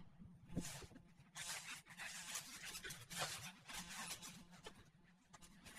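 Faint, irregular rustling and scuffing in grass as a dog noses about and sniffs a spot.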